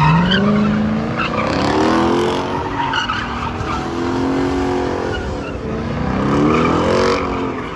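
Performance car engine revving up and down repeatedly, its note falling and rising again about every two seconds, with tyre squeal from a burnout or drifting.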